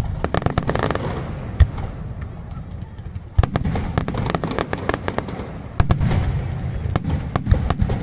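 Aerial fireworks display by Pirotecnia del Mediterráneo: a rapid string of sharp bangs and crackling, with heavier booms about three and a half and six seconds in.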